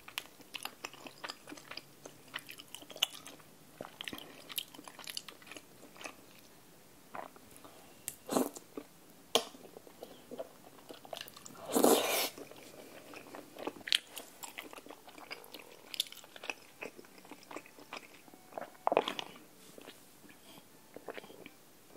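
Close-miked mouth sounds of eating chewy Korean rice cakes (tteokbokki) in a creamy sauce: steady wet chewing with many small mouth clicks, broken by a few louder wet smacks, the loudest about halfway through.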